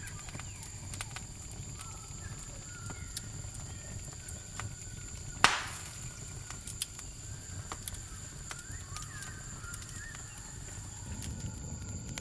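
Campfire crackling with scattered sharp snaps and one loud pop about halfway through, over a low rumble. A steady high-pitched cricket chirring carries on underneath.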